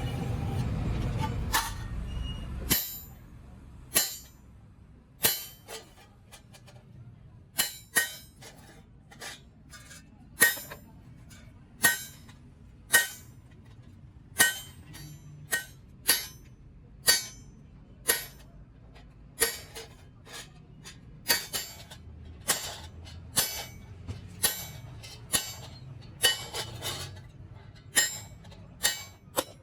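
Hammer blows on sheet-metal silencer parts, roughly one or two a second at an uneven pace, each strike ringing briefly. A low rumble during the first couple of seconds stops suddenly.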